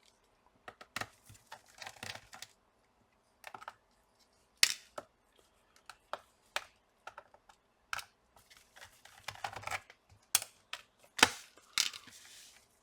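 Irregular sharp clicks and light knocks with a few short scrapes between them: a screwdriver and small screws being handled against a laptop's plastic bottom case.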